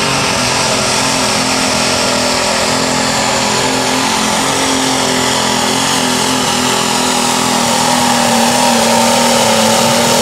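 International Harvester 766 super stock pulling tractor's turbocharged diesel engine running at full power down the track, a loud steady drone with a held pitch that grows slightly louder toward the end.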